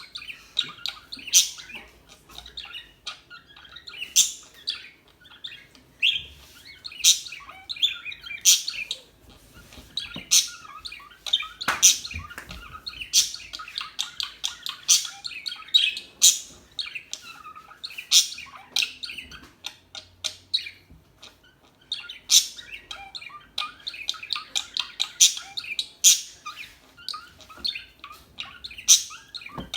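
Pet parakeets (budgerigars) chirping: a dense, steady stream of short, sharp, high chirps, several loud ones standing out among many softer ones.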